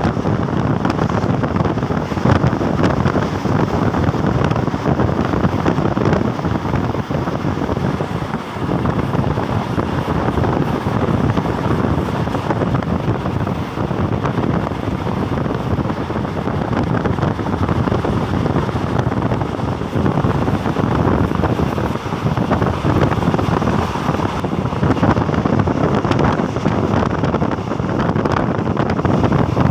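Steady running noise of a moving passenger train, heard from inside the carriage, with wind buffeting the microphone at the window.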